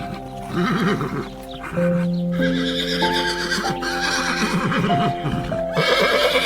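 Horse whinnying a few times in quavering calls, over background music with sustained notes.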